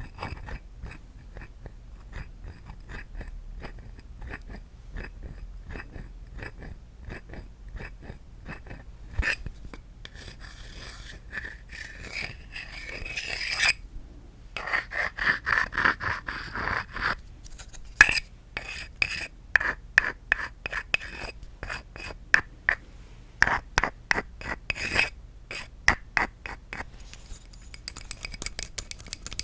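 Light tapping on wooden objects, with a stretch of scraping across the wood about a third of the way in, cut by a sudden brief silence. Sharper, louder taps come quickly in the last third.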